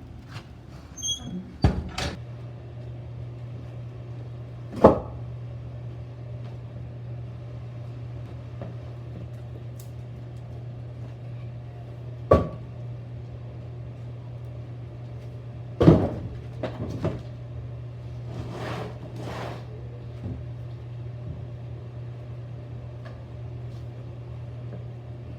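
Firewood being handled: a few sharp knocks and thuds, one about every few seconds, and a short scraping stretch, over a steady low hum that starts about two seconds in.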